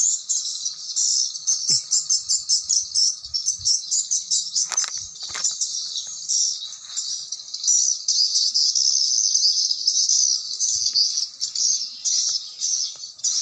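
Swiftlet chirping: a dense, unbroken stream of rapid high twittering chirps, the swiftlet lure call used at a swiftlet house.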